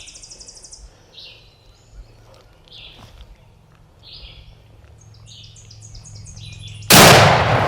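Small birds chirping in repeated high notes, then a single loud shotgun blast about seven seconds in, fired at a wild turkey gobbler, with its report dying away slowly.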